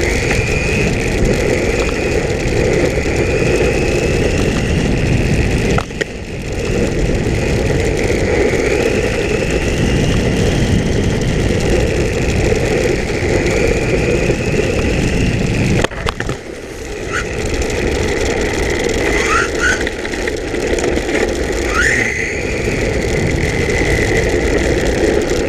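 Electric motor of an RC10L radio-controlled pan car whining, its pitch rising and falling with speed over a constant low rumbling noise. The sound dips briefly twice when the throttle comes off, and near the end there are several quick rising whines as it accelerates.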